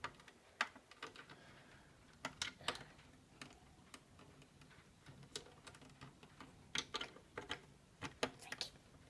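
Small plastic Lego pieces and figures being handled and set in place: scattered, irregular light clicks and taps.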